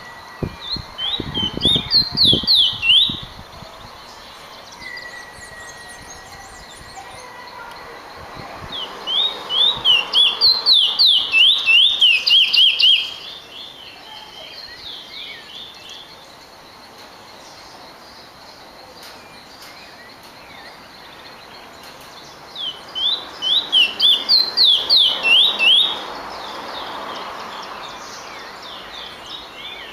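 Finch singing: three loud bouts of quickly repeated, falling whistled notes, each about three to four seconds long. The bouts come near the start, in the middle and in the last third.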